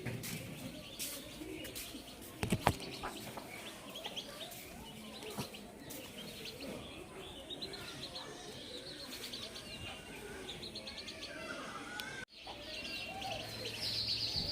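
Small birds chirping and trilling in rapid runs of high notes, with a pair of sharp knocks about two and a half seconds in.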